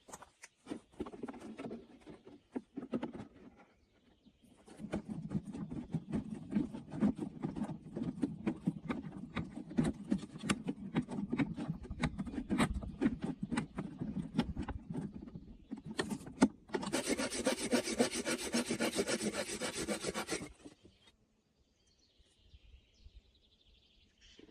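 Wood being worked by hand with a saw or rasp, in quick rubbing strokes for about ten seconds. This is followed by a few seconds of a steady, brighter whirring that stops suddenly.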